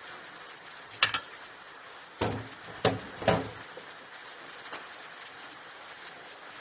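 Sharp metallic clicks and knocks from parts of a dismantled Lister SR3 diesel engine being worked by hand. Four come within about two and a half seconds, starting about a second in, and a faint one follows near the end.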